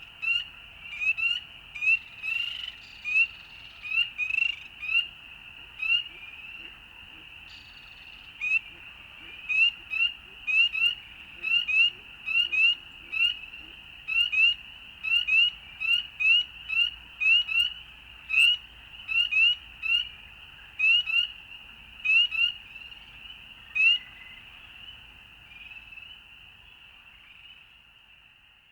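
Frogs calling outdoors: short, high, rising peeps repeated about once or twice a second over a faint, steady background chorus. The peeps stop about four-fifths of the way through, and the remaining chorus fades out near the end.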